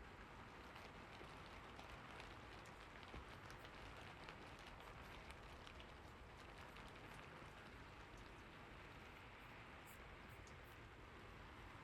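Faint, steady rain with scattered small drop ticks.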